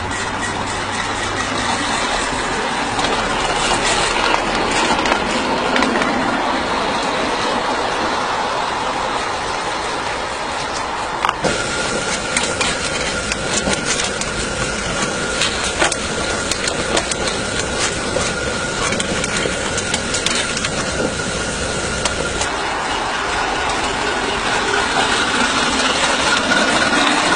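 Coal-fired live-steam model locomotive running, with steady steam noise and mechanical clatter and rattle. A sharp knock comes about eleven seconds in, and a thin steady high tone sounds for about ten seconds after it.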